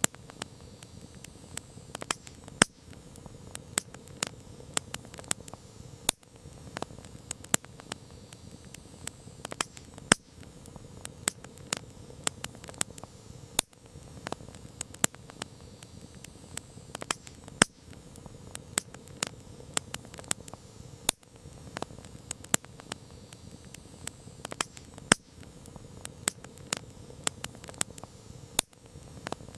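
Wood campfire crackling: a steady low hiss of flames with frequent sharp pops and snaps at irregular intervals, some much louder than the rest.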